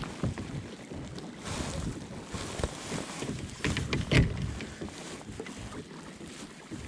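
Water and handling sounds on a kayak at sea, with wind on the microphone and scattered light knocks; a short cluster of louder knocks and splashing comes about four seconds in.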